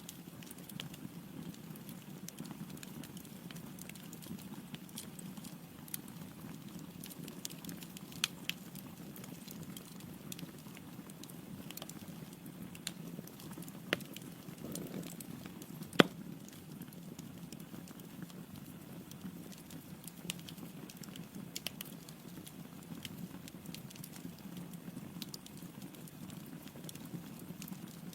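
Wood fire burning in a fireplace: a steady low rush of flame with scattered crackles and pops from the logs, the loudest pop about halfway through.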